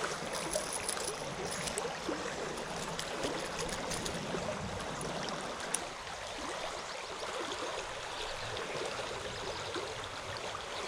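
Creek water running over rocks: a steady rushing hiss, with a few faint ticks.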